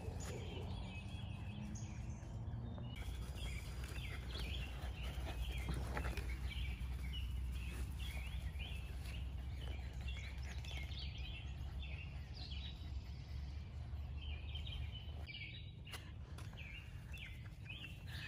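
Birds chirping in many short, high notes, over a steady low rumble.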